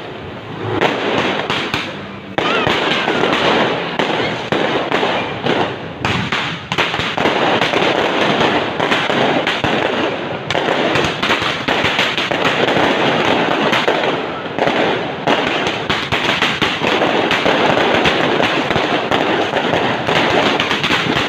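New Year fireworks going off continuously: a dense, unbroken crackle of many overlapping bangs and pops. It grows denser and louder about two seconds in.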